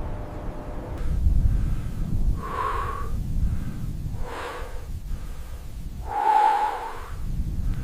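Three loud, wheezy breaths, each with a whistly edge, about two seconds apart, over a steady low rumble of wind buffeting the microphone.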